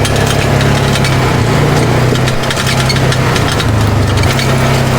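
Polaris RZR 570 side-by-side running steadily at trail speed, its engine a constant low hum, with a continuous crunching and rattling from the tyres and chassis on the dirt track.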